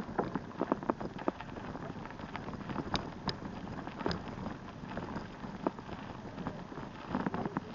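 Bicycle rolling over rough ground: a steady rushing noise with many scattered clicks and crackles, the sharpest about three and four seconds in.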